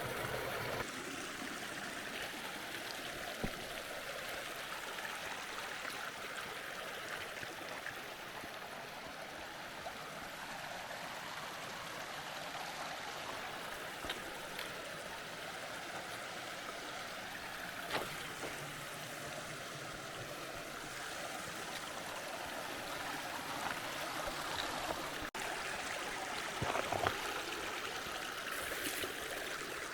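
Mountain creek running, a steady even rush of flowing water, with a few faint ticks now and then.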